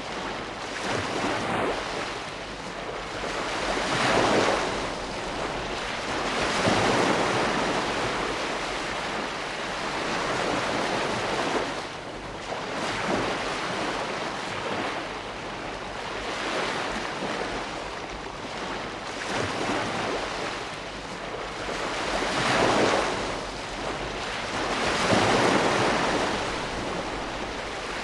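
Ocean waves breaking and washing ashore: a continuous rush of surf that swells and falls as each wave comes in, every few seconds.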